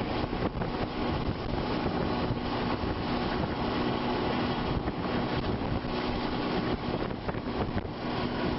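Steady rushing wind buffeting the microphone, with a faint low hum running underneath.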